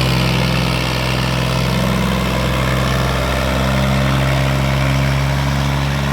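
New Holland 480 tractor's diesel engine running steadily under load while pulling a disc harrow, holding its speed without stalling.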